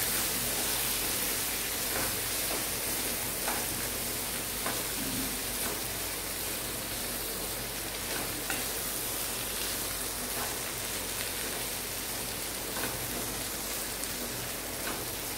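Cut cluster beans stir-frying in oil in a non-stick pan, a steady sizzle, with a spatula stirring through them and now and then lightly scraping or tapping the pan. The beans have just been coated with turmeric and spice powder.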